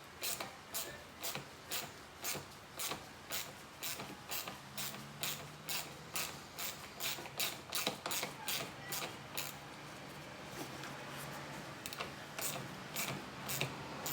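Ratchet wrench clicking in short, regular strokes, about two a second, as a nut is run down on a battery cable terminal. The clicking stops about two-thirds of the way through, and a few more strokes come near the end.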